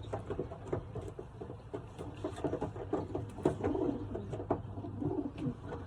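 Racing pigeons cooing softly in a loft, in several short stretches, with scattered small clicks and taps.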